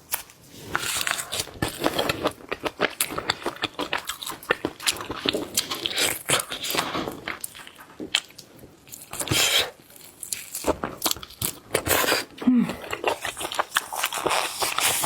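Spicy sauce shrimp being bitten and chewed, a dense run of crunching and crackling bites with two short pauses.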